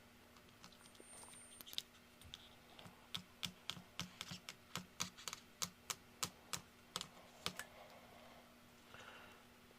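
Ultrasonic knife cutting through the supports of a resin 3D print: a quick run of sharp clicks, about three a second, starting about three seconds in and stopping about four and a half seconds later.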